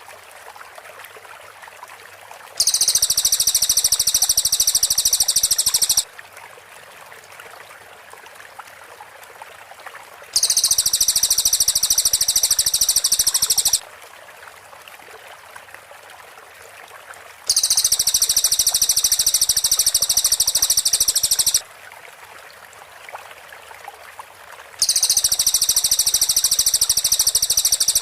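Cililin song: a very rapid, tightly spaced high-pitched trill, the 'shooting' (tembakan) type, in four bursts of about three to four seconds each. A faint steady background hiss runs between the bursts.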